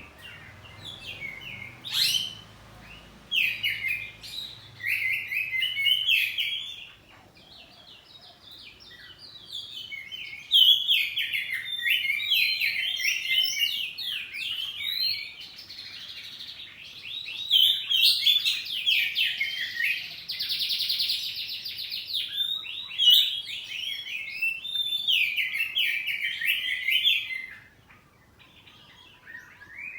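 Oriental magpie-robin (kacer poci) singing loud, varied phrases of rapid whistled and chattering notes. The song breaks off about a quarter of the way in and again near the end. There is a harsh buzzing rattle in the middle.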